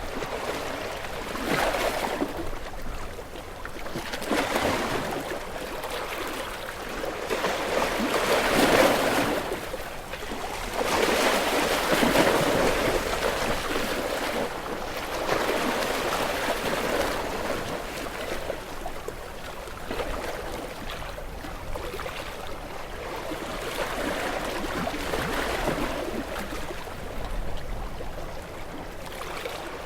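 Small waves washing onto a shore, breaking and running up the beach in soft swells every few seconds, the loudest near the middle.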